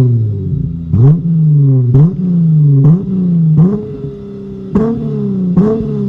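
Dodge Challenger's tuned exhaust as the engine is blipped again and again, about once a second: each rev jumps up sharply and then falls away slowly.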